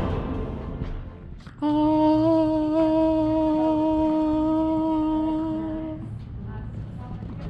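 A person humming one long, steady note that starts suddenly and stops about four seconds later, after the last of a music track fades out.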